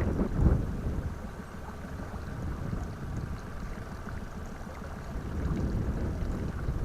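Gusting wind buffeting the microphone on an open pontoon boat, a low rumble that eases after the first second and builds again near the end.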